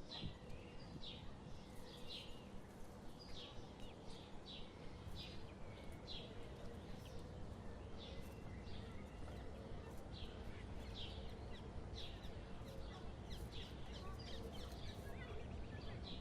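High-pitched bird peeps, short notes repeating irregularly about once or twice a second, over a steady low outdoor rumble.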